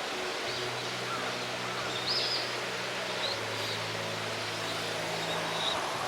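Steady outdoor ambience: an even rushing hiss with a few short, faint bird chirps, under soft held low tones that shift pitch a couple of times.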